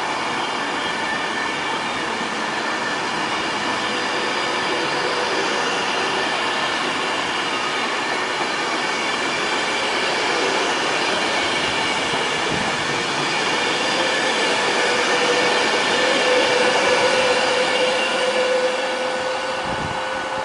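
Virgin class 390 Pendolino electric train running past on the near track: a continuous rush of wheels on rail with several steady high-pitched tones. A steadier mid tone swells in the second half, loudest about three quarters of the way through, as a second Pendolino comes in.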